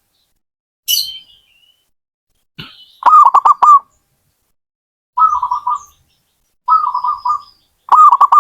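Zebra dove (perkutut) cooing: short phrases of quick rolling coo notes, repeated four times, the first the loudest. A brief high-pitched call comes about a second in.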